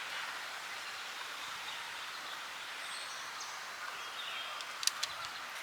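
Steady outdoor background hiss with a few faint, short bird chirps, and a couple of light clicks near the end.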